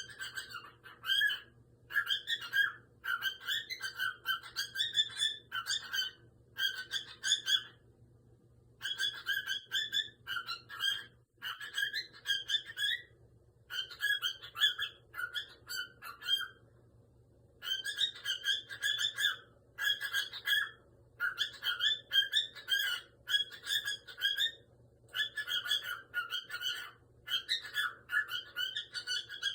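Cockatiel chattering and whistling in a long run of short warbling phrases, broken by brief pauses.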